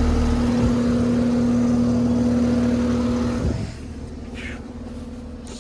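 2024 Carrier central air conditioner's outdoor condenser running: a steady hum from the compressor with the fan's rushing air over it, the fan motor sounding strained, which the owner puts down to the unit running in cool, 60-degree weather. About three and a half seconds in the hum drops sharply in loudness.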